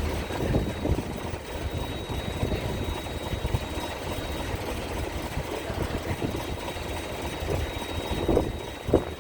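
Low, steady rumble of a ferry's engines idling, with strong wind buffeting the microphone and a couple of thumps near the end.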